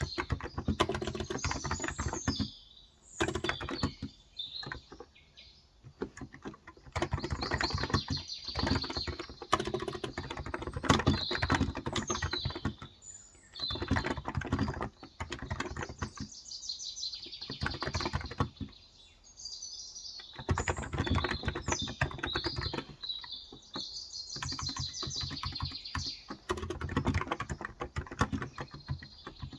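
Typing on a Cox Endeavour electro-capacitive (Topre-style) tenkeyless keyboard with light 35 g switches: quick runs of key clicks in bursts with short pauses. Small birds chirp throughout in the background.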